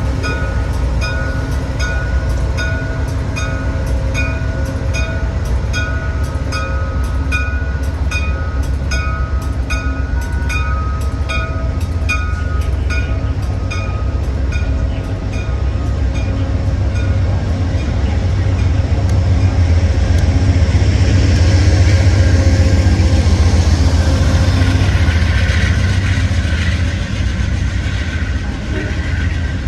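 Amtrak train departing: a locomotive bell ringing about twice a second over a steady low engine rumble. The bell dies away about halfway through, and the rumble and rolling noise grow louder as the train passes.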